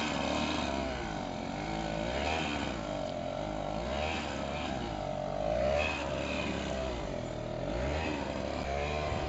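Small snow blower engine running under load, its pitch dipping and rising again every second or two as it works through deep snow.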